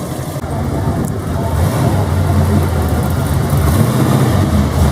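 A car engine running loud and low, growing louder about a second in.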